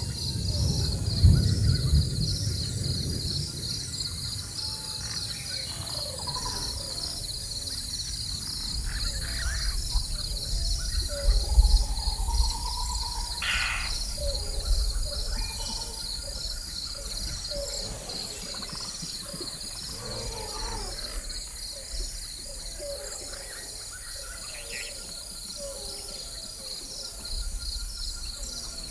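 Rainforest ambience: a steady chorus of insects with a fast pulsing trill and a high hiss, scattered bird calls, and low rumbles of distant thunder near the start and again around ten to twelve seconds in.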